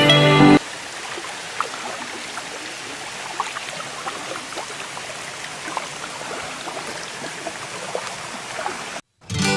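Water trickling and lapping, with small scattered drip-like ticks. Music plays at the start and stops about half a second in. The water sound cuts off abruptly near the end.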